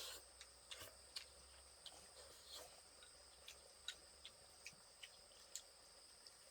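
Faint, steady high-pitched chirring of crickets or other insects, with scattered soft clicks and taps at irregular intervals.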